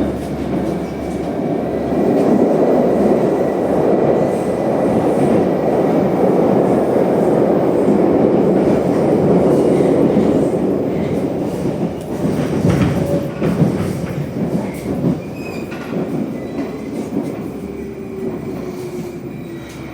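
Moscow Metro train heard from inside the car while running between stations: a steady loud rumble of wheels and running gear. From about twelve seconds in it fades as the train slows for the next station, with a faint whine sliding down in pitch near the end.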